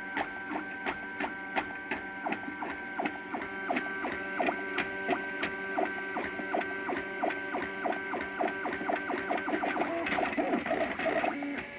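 MakerBot Thing-O-Matic 3D printer printing a layer: its stepper motors whine in steady tones that jump to a new pitch every fraction of a second as the print head changes direction, with a light tick at each change. After about nine and a half seconds the pitch pattern becomes more irregular.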